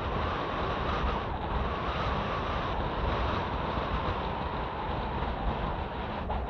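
Kawasaki T-4 jet engines roaring steadily in the sky, with heavy wind buffeting the microphone.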